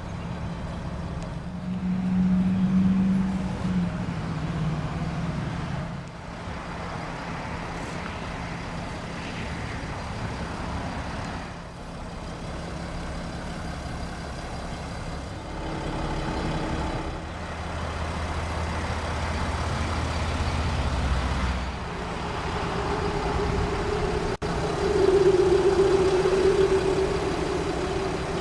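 Mercedes-Benz Sprinter's 3-litre six-cylinder diesel idling with a steady low hum. Other humming tones come and go over it, the loudest near the end.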